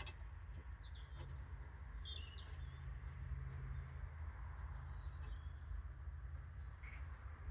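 A few short bird chirps, high-pitched and scattered, over a steady low background rumble.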